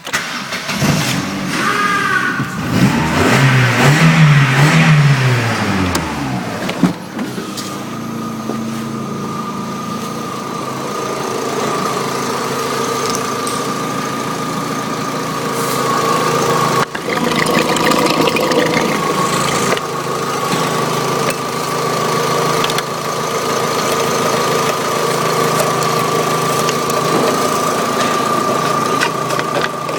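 Opel Vectra B's 1.6-litre Z16XE four-cylinder petrol engine starting, revved up once and let back down within a few seconds, then idling steadily with a constant high whine alongside.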